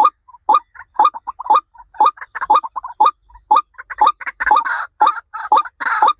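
Birds calling in a fast run of short, sharp notes, several a second, turning to harsher, noisier squawks in the last second or two.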